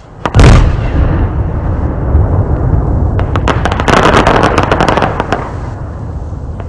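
A 3-inch aerial firework shell bursting with a loud bang about half a second in, its boom rolling on afterwards. From about three seconds in, about two seconds of dense crackling as the shell's green stars turn to crackling time rain.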